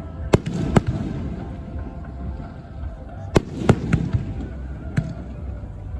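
Aerial fireworks shells bursting: a pair of sharp bangs right at the start, another pair about three and a half seconds in and a weaker one near the end, over a continuous low rumble of further bursts.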